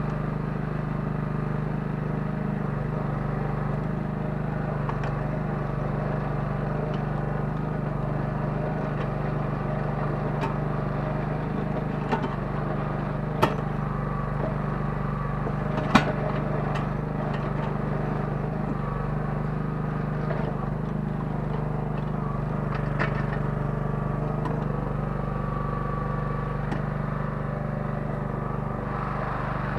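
The 9 hp engine of a Kellfri towable mini excavator running steadily under work, with a few sharp knocks, the loudest about 13 and 16 seconds in.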